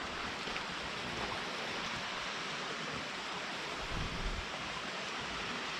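Steady rushing of a mountain stream or waterfall, an even hiss of water, with a few soft low bumps about four seconds in.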